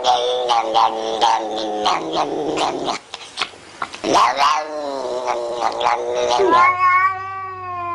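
An animal crying out in pitched calls: a run of short cries, a brief pause about three seconds in, more cries, then one long drawn-out call sliding down in pitch near the end.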